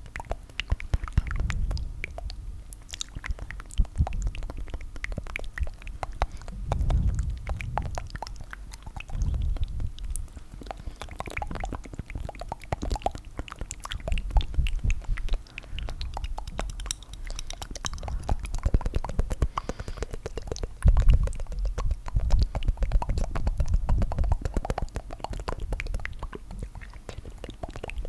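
Layered ASMR tongue fluttering: rapid wet mouth flutters and clicks overlapping without pause, swelling louder and deeper every few seconds.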